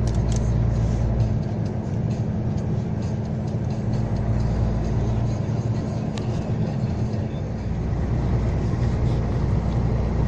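Heavy truck's diesel engine and road noise, a steady low drone at cruising speed, heard from inside the cab.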